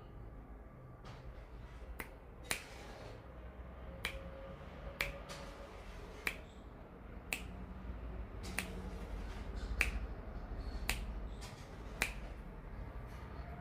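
Sharp single clicks or snaps, a dozen or so, coming irregularly about once a second over a low background hum.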